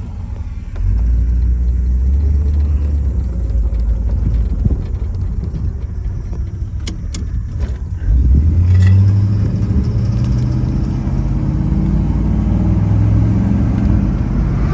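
1966 Pontiac GTO's 389 V8 running as the car drives. The engine gets louder as the throttle opens about a second in, and again about eight seconds in with a short rise in pitch. A few sharp clicks come just before the second rise.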